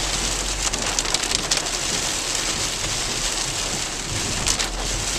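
Heavy rain beating on a car, heard from inside the cabin: a steady wash of rain with sharp individual hits, thickest about a second in and again near the end.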